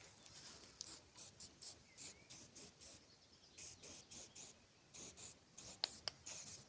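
Faint, irregular short scratchy rustles, about a dozen spread over several seconds, from handling sticks and wood.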